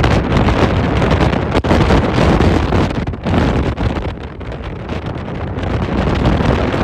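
Strong storm wind buffeting the microphone, a loud, gusting rumble that rises and falls.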